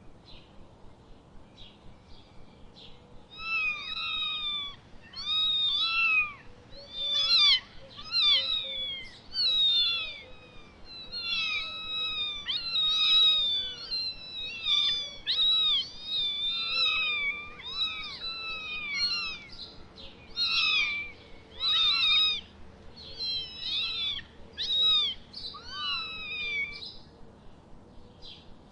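Cat meowing over and over: a long run of short, high, rising-and-falling mews, about one a second, starting a few seconds in.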